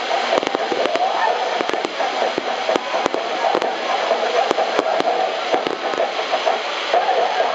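Fireworks display going off without pause: many sharp pops and crackles following one another, over the steady chatter of a crowd.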